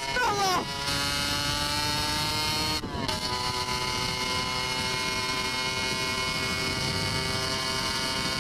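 Aprilia RX 125 motorcycle engine running at road speed, its pitch edging up, then a brief dip about three seconds in, after which it runs steadily at a slightly lower pitch. Wind rushes over the microphone.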